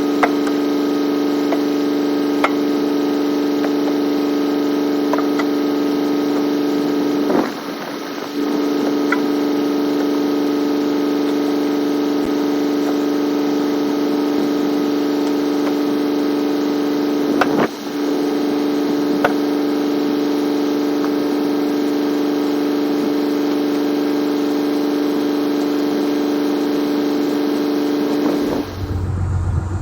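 Steady machine hum with a strong whine, dropping out briefly twice. Near the end it gives way to a lower engine sound.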